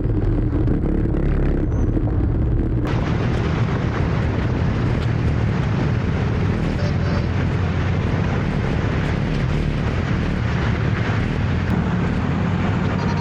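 Motor scooter running on the move, with heavy wind buffeting on the microphone. About three seconds in, a loud steady hiss joins and stays.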